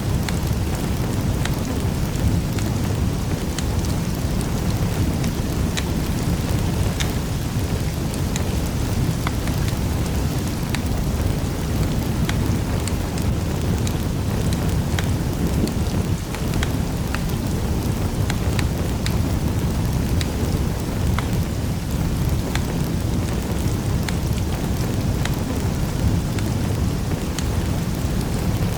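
Wood fire burning in a fireplace: a steady low rumble of flames with many small, sharp crackles and pops scattered throughout.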